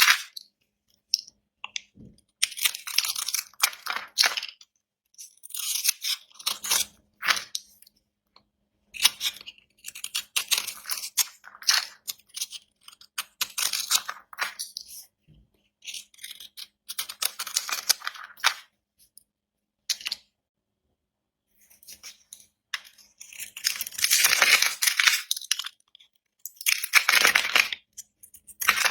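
A blade cutting through dry bar soap: a series of crisp, crackly scraping cuts, each lasting a second or two, with short pauses between strokes.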